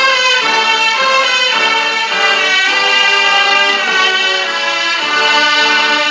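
Orchestral music, with violins carrying a melody of held notes that change every second or so.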